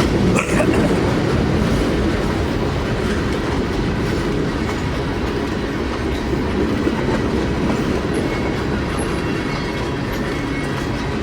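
Freight train cars rolling past at speed: a steady rumble of steel wheels on the rails with clickety-clack from the rail joints.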